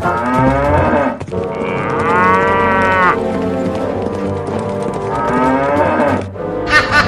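Cow mooing in long, drawn-out calls over background music.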